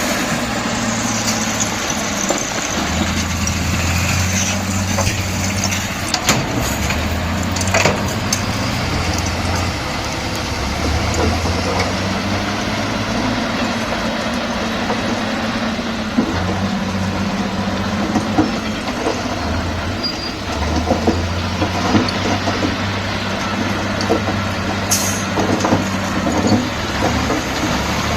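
Bulldozer diesel engine running under working load, its pitch shifting up and down as it pushes, with scattered metallic clanks and knocks.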